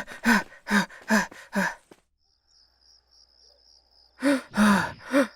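A cartoon character panting in quick, short breaths. A pause follows with a faint high cricket trill, then the panting starts again near the end.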